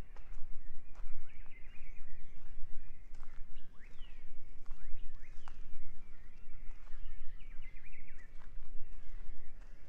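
Several birds chirping and calling over one another, short notes and quick sweeps in pitch, over a steady low rumble.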